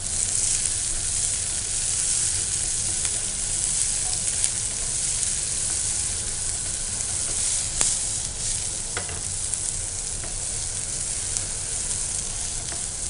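Sliced green capsicum, onion, cumin and ginger sizzling in oil in a nonstick frying pan as a wooden spatula stirs them, with a few light clicks of the spatula against the pan.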